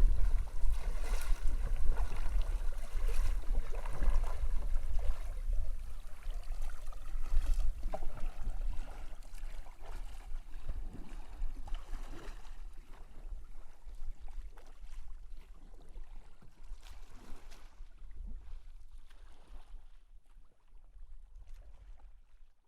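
Water splashing and lapping around a kayak, with wind rumbling on the microphone; the sound gradually fades away toward the end.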